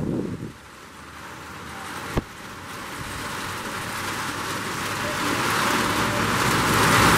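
Heavy rainstorm: a steady hiss of rain that grows louder, with wind buffeting the microphone at the very start and a single sharp click about two seconds in.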